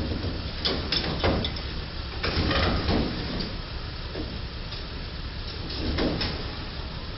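Street traffic with a steady low engine rumble, broken by a few sharp knocks in the first second or so and a longer, louder scraping crunch about two to three seconds in.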